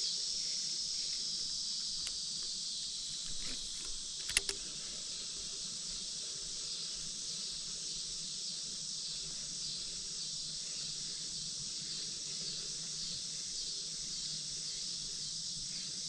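Steady, high-pitched chorus of insects shrilling without a break. A few sharp clicks cut through it, the loudest pair about four seconds in.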